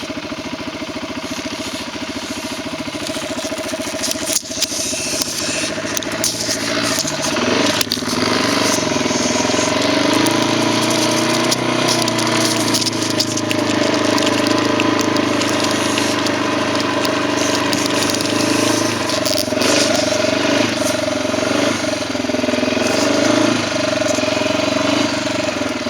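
Quad (ATV) engine running under riding, its pitch rising and falling as the throttle changes. It gets louder and higher about eight seconds in, with scattered knocks and rattles over the top.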